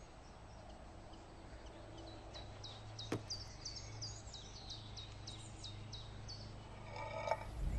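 A bird chirping a quick series of short high notes, about three a second, over a faint steady low hum, with a single click about three seconds in.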